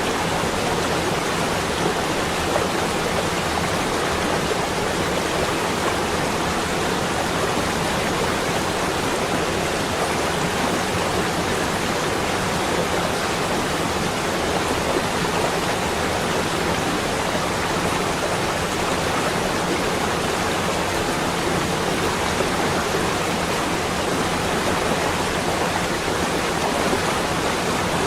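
A steady, unbroken rushing noise, even in level throughout, like wind or running water.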